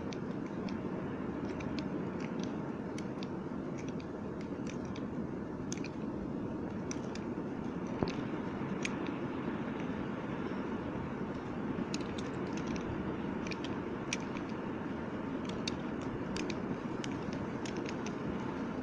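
Bar soap being cut with a knife: irregular small crunchy clicks and crackles over a steady scraping hiss.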